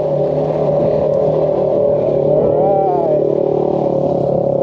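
A motor running steadily at a constant pitch, with a brief rising-and-falling voice-like sound about two and a half seconds in.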